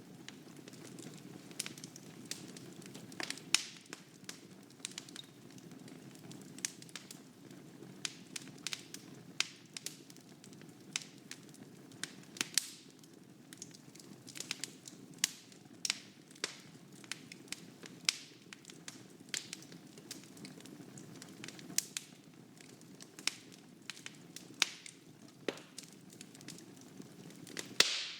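Fire burning in a fireplace: a steady low rush of flames with frequent sharp crackles and pops scattered throughout, and one louder pop near the end.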